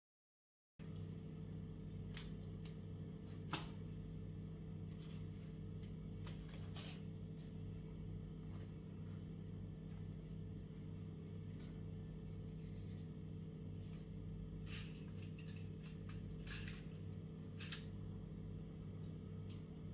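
A steady low electrical hum that starts abruptly about a second in, with scattered light clicks and brief scrapes over it, one sharper click a few seconds in.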